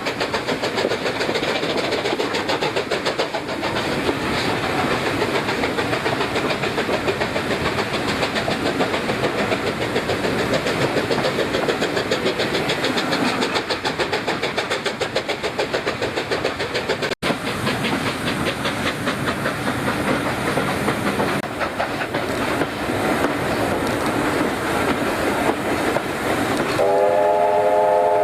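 Steam train running, a fast, even clatter of exhaust beats and rail noise. About a second and a half before the end, its whistle starts, sounding a steady chord of several notes.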